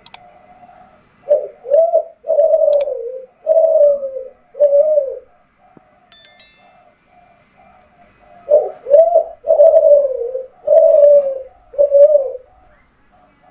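Kelantan-strain spotted dove (derkuku) cooing: two phrases of about five low coos each, a few seconds apart.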